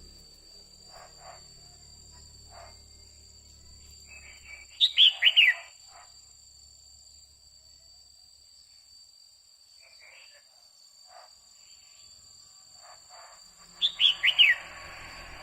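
Female red-whiskered bulbul calling: two loud bursts of four quick, downward-sliding notes, about nine seconds apart. A steady high-pitched tone runs underneath.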